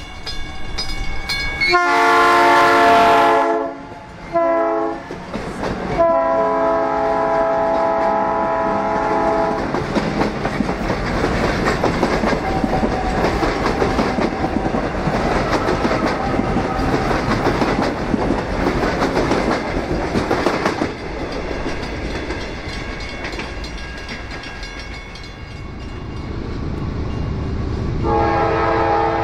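South Shore Line electric commuter train sounding its horn in several blasts as it approaches, the last blast held about three and a half seconds, then rumbling past with its wheels clattering on the rails before the noise fades. Near the end, the horn of an approaching Norfolk Southern freight locomotive starts up.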